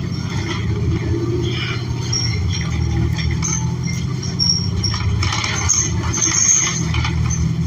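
Inside a New Flyer XN40 city bus: a steady low drone from its Cummins Westport L9N natural-gas engine and drivetrain, with short high squeaks and rattles from the cabin.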